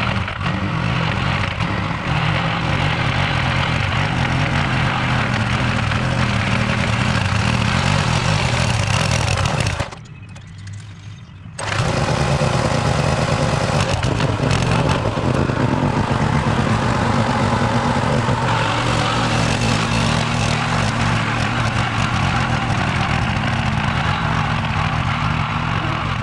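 Small petrol engine of a garden tiller running steadily while tilling. The sound drops away for a second or two about ten seconds in, then comes back.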